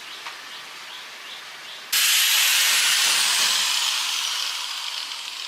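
Faint rhythmic scraping at about two strokes a second, then a sudden loud hiss of gas escaping under pressure that starts abruptly about two seconds in and slowly eases, with a thin whistle falling in pitch.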